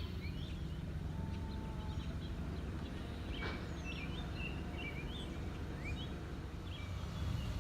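Outdoor ambience: a steady low rumble with small birds chirping now and then in short, scattered calls.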